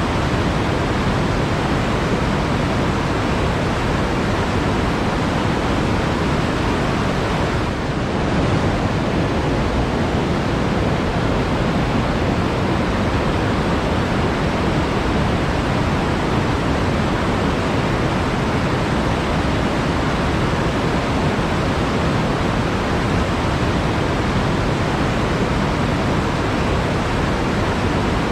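Steady rush of flowing water, even and unbroken, with a brief slight dip in level about eight seconds in.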